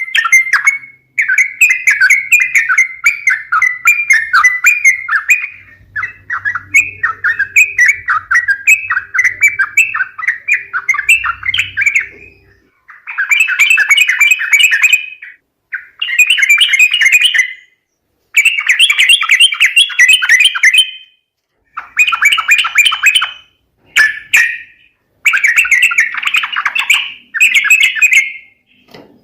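Yellow-vented bulbuls chattering in rapid, bubbly phrases: unbroken for about the first twelve seconds, then in bursts of one to three seconds with short gaps between. It is a played-back lure call of the kind used to draw wild bulbuls in for trapping.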